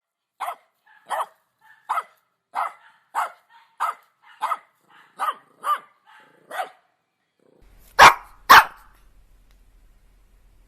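A dog barking: about ten single barks, roughly one every two-thirds of a second, then a short pause and two louder barks half a second apart with a faint low hum under them.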